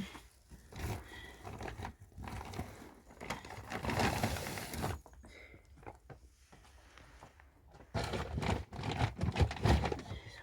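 Irregular crinkling and rustling handling noises, with a louder stretch about four seconds in and another flurry near the end.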